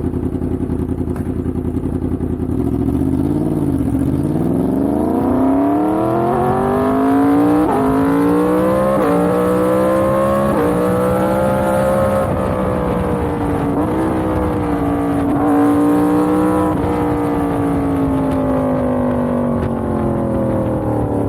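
Yamaha MT-10's crossplane inline-four engine accelerating hard through the gears, its pitch climbing and dropping back at each upshift, then easing off with the pitch falling slowly.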